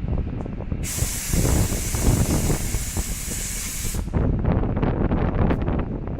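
A train venting compressed air: a loud hiss lasting about three seconds that cuts off suddenly, over a low rumble and scattered clanks from the train.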